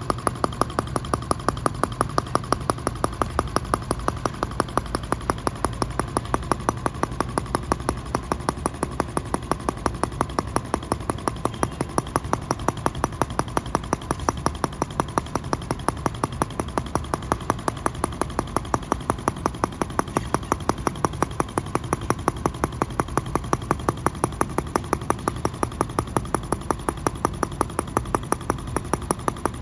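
1.9 cc single-cylinder gasoline model engine running steadily at a constant speed. Each firing stroke gives a sharp, even pop in a quick, regular rhythm.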